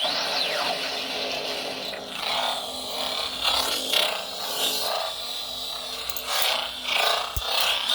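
Lightsaber hilt's sound board playing its "Cyber Terror" sound font through its speaker: the blade ignites with a falling sweep at the start, then runs on as a noisy hum that surges in level several times as the saber is swung.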